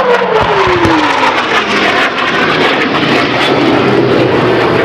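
F/A-18 Hornet's twin turbofan engines in a loud low pass overhead. The engine note drops steadily in pitch over the first second or two as the jet goes by, then a dense jet roar carries on.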